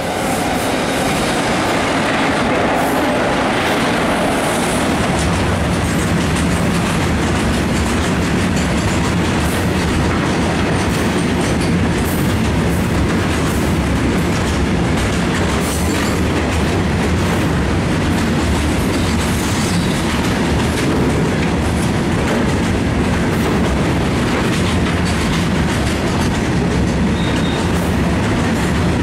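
Train running at speed on the line: a loud, steady rush and rumble of wheels on rail with the clickety-clack of wheels over rail joints. It swells in the first second, then holds level throughout.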